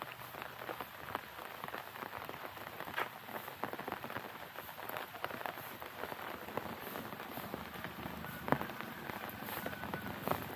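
Steady rain falling on hard surfaces: a constant hiss with many close drops ticking irregularly, one sharper tick about eight seconds in.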